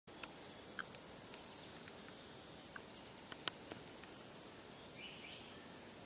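Songbirds calling in woodland: three short high calls that each step up in pitch, about half a second in, around three seconds and near five seconds, with a few sharp ticks between, over a faint steady hiss.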